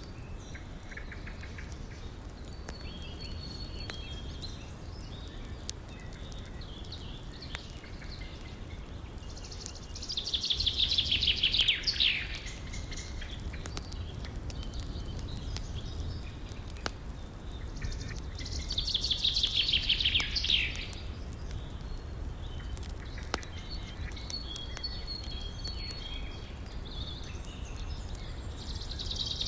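Songbirds calling over a steady low rush of river water, with scattered small crackles from a wood fire. Twice, about ten and eighteen seconds in, a bird sings a loud, fast trill about two seconds long that falls in pitch; another begins right at the end.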